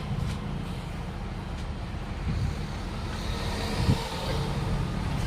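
Steady low rumble of a running vehicle engine, with a single short knock a little before the end.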